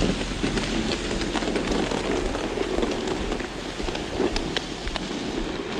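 Snow brush sweeping light, fluffy snow off a car, a steady scratchy swishing with small crackles throughout.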